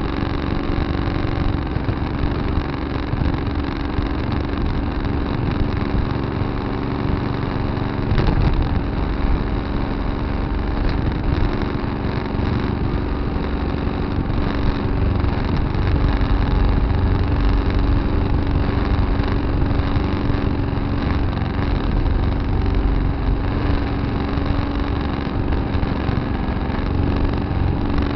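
Tractor engine running steadily, with one sharp knock about eight seconds in.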